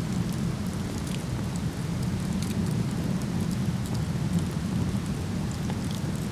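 Steady rumble of a nearby waterfall, with a wood fire crackling over it in many small, sharp pops.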